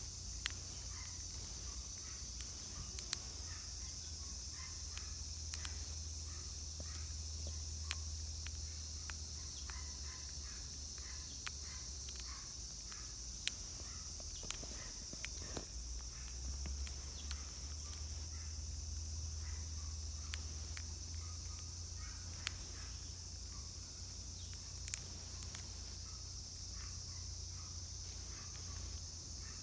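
Steady high-pitched drone of insects singing, with scattered sharp clicks and a low rumble underneath.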